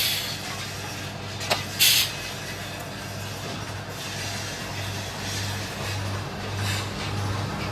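Factory machinery running with a steady, pulsing low hum, a sharp click and then a short hiss about two seconds in.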